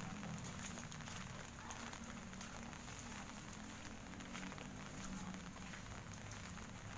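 Rain falling steadily: a faint, even hiss dotted with many small ticks of drops landing.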